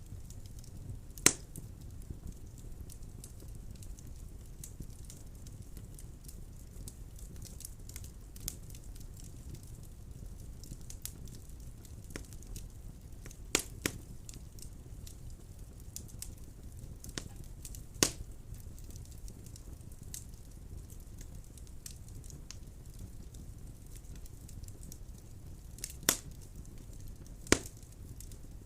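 Wood fire burning in a fireplace: a steady low rumble of the flames with scattered crackles and a few loud sharp pops.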